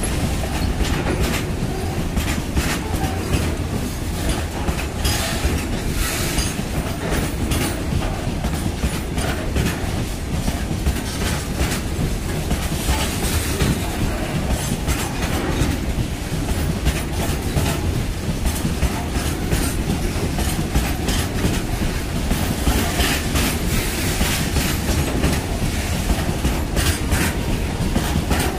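Freight train of hopper wagons rolling steadily past, with a continuous rumble of wheels on rail and repeated clickety-clack as the wheels cross rail joints.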